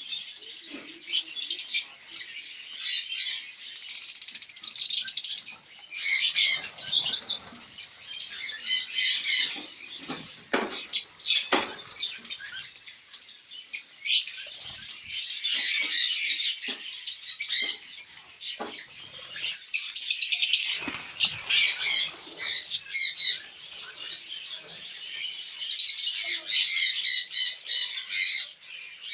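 A colony of budgerigars and lovebirds chattering and chirping without pause, a dense mix of many birds' calls, with a few sharp knocks now and then.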